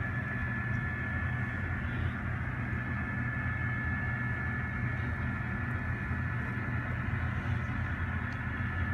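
N scale model of a GE Tier 4 GEVO diesel locomotive running, its onboard sound playing a steady diesel engine drone along with a thin, steady high-pitched whine.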